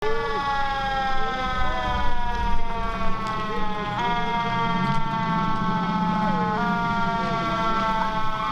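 Fire engine siren wailing over the truck's engine rumble. The pitch slowly falls and jumps back up twice.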